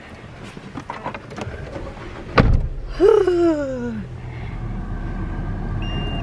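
A car door shuts with a single loud thud about two and a half seconds in. Right after, a pitched sound slides down for about a second, and then the car's engine settles into a steady low running hum.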